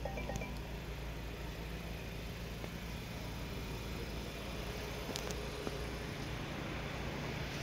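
Range Rover Evoque's 2.0-litre four-cylinder petrol engine idling with a steady low hum, with faint clicks about five seconds in.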